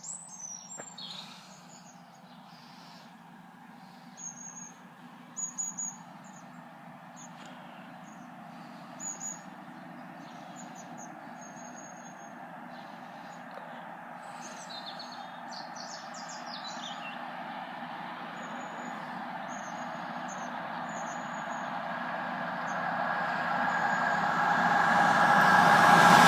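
Small birds chirping over the steady hum of an approaching diesel locomotive, which grows steadily louder over the last half and is loud by the end.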